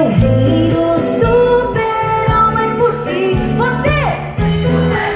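A woman singing a pop song over instrumental accompaniment, with steady bass notes beneath her voice; about four seconds in, her voice slides up and down in pitch.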